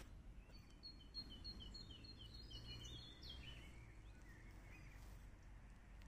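A small songbird sings one quick phrase of about three seconds, rapid notes alternating high and low and ending in a short downward flourish. It is faint, over a low steady background rumble.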